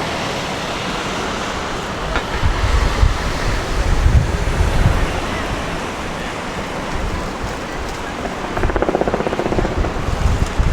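Street ambience: a steady wash of city noise, with wind buffeting the microphone in gusts from about two seconds in.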